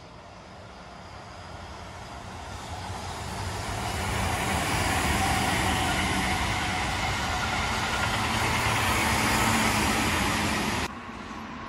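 Keihan electric train passing on the line, the sound of its wheels on the rails growing as it approaches and then running steadily at its loudest. It cuts off suddenly near the end.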